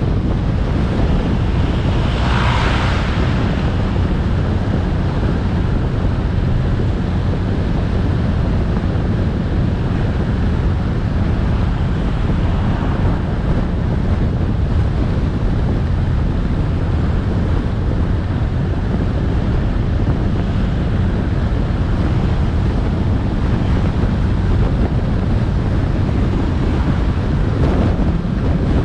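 Wind buffeting the microphone of a camera on a moving motorcycle, a steady low rumble with the bike's engine and road noise underneath. A brief louder hiss about two seconds in.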